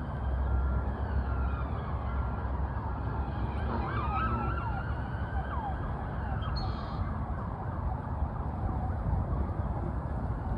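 An emergency-vehicle siren wailing in the distance, its pitch rising and falling slowly over a steady rumbling background noise.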